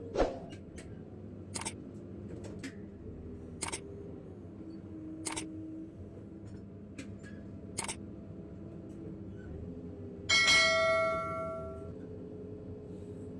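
Several sharp clicks and knocks over a faint steady hum. About ten seconds in, a single ringing metallic clang dies away over a second or so.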